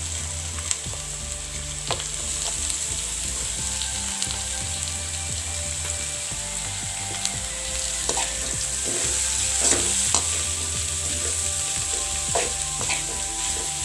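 Vegetables sizzling steadily as they stir-fry in a metal kadai. A perforated steel ladle scrapes and clicks against the pan, more often in the second half as the vegetables are tossed.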